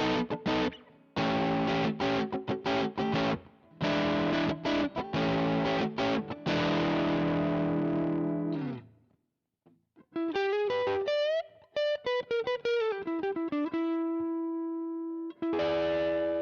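Electric guitar played through a VOX StompLab IIG modeling pedal's clean/crunch amp model. Choppy strummed chords run for about nine seconds, then a quick run of single picked notes, then one chord is struck near the end and left ringing.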